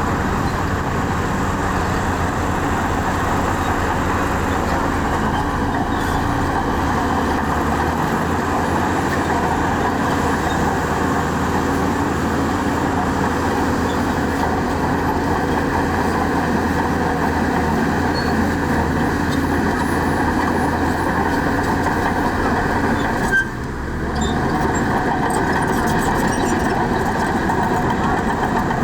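Heavy diesel earthmoving machinery running steadily under load, with a low engine drone and a dense mechanical clatter. There is a brief dip about three quarters of the way through.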